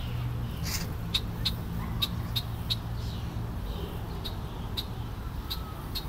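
A bird's short, sharp alarm calls, repeated about twice a second with a few brief falling notes among them, from a black bird diving at the person it is attacking. A steady low rumble runs underneath.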